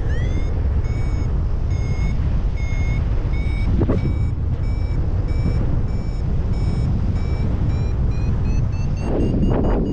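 Flymaster paragliding variometer sounding its climb tone, a steady series of short beeps about two a second whose pitch slowly rises near the end: the glider is climbing in lift, faster as the pitch rises. Heavy wind rumble on the microphone, with louder gusts.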